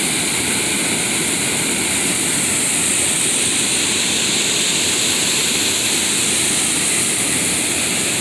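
Waterfall at an old mill, water rushing steadily with an even, loud hiss.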